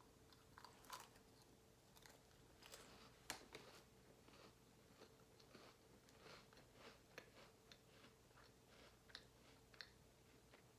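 Faint chewing and crunching of flaky butter crackers with shredded cheese, close to the microphone: irregular small crunches and mouth clicks, the loudest about three seconds in.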